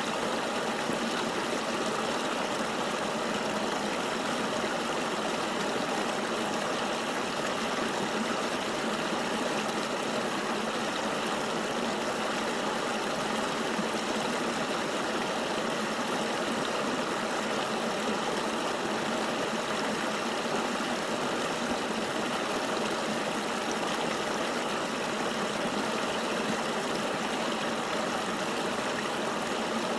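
Flowing river water rushing steadily and evenly, with no deep rumble underneath.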